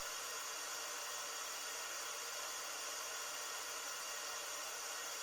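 Pink noise test signal playing steadily through loudspeakers for an equaliser and room-response check. It is an even, unchanging hiss with little bass.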